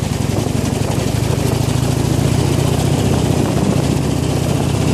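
Harley-Davidson Iron 883's air-cooled V-twin engine running steadily at low revs.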